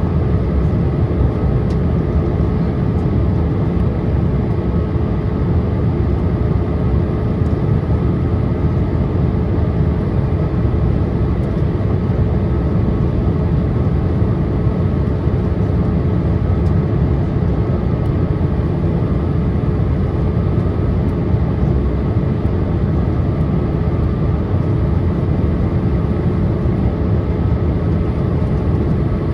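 Steady cabin noise inside a Boeing 787-8 airliner on descent: a low rush of engine and airflow noise with a steady hum running through it, unchanging throughout.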